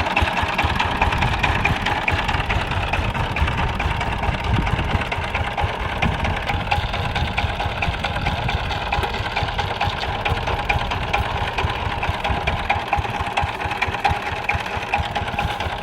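Saifing 12 hp power tiller's single-cylinder diesel engine running steadily with a fast, even beat.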